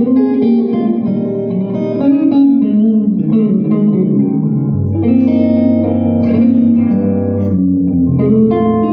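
Blues guitar played live with reverb: sustained and bent notes over low bass notes.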